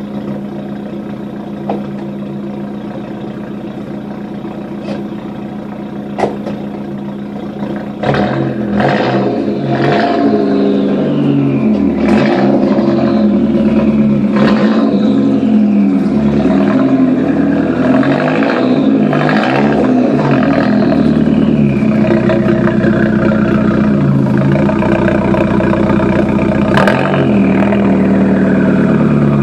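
Turbocharged 1.8-litre 20-valve four-cylinder of a VW Golf Mk4 through a straight-pipe stainless exhaust with a catalytic converter, idling steadily, then revved in a series of quick blips from about eight seconds in. For the last several seconds it runs steadily again, louder, with one more blip.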